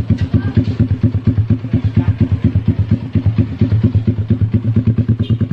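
Yamaha MX King 150's single-cylinder four-stroke engine idling through an aftermarket exhaust: a steady, even train of exhaust pulses, about ten a second.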